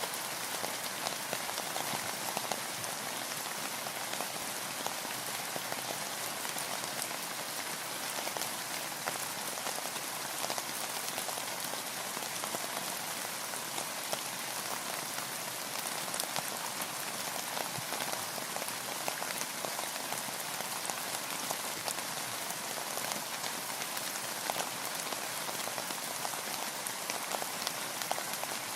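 Steady rain falling on a boat, a dense hiss of many small drop ticks at an even level.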